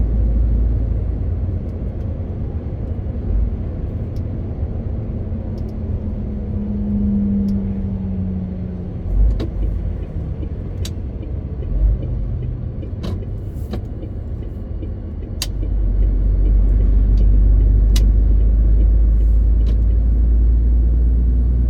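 MAN TGX 18.520 truck's inline-six diesel engine running on the road as a low rumble, which grows louder about two-thirds of the way through. Scattered sharp clicks and two brief thumps sound over it.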